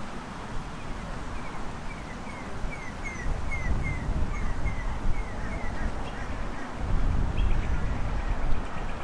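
A bird calling a rapid series of short, falling chirps, about three a second for some four seconds. Wind rumbles on the microphone throughout and gusts louder near the end.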